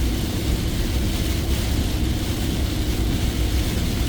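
Heavy downpour falling on a moving vehicle, heard from inside the cabin as a steady hiss over a continuous low engine and road rumble.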